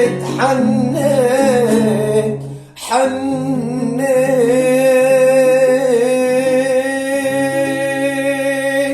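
A male singer draws out a long, ornamented sung phrase and then holds a final note with vibrato, over steady held accompaniment chords. The music stops at the very end: the close of the song.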